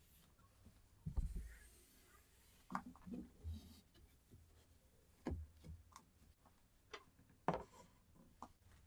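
Household handling sounds during cleaning: light knocks and clicks as objects are picked up and set down, with a soft rubbing hiss about a second in.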